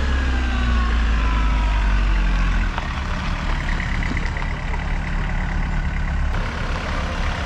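MK2 Jetta's 1.6 diesel engine running, its heavy low rumble easing off a little under three seconds in and then carrying on steadily.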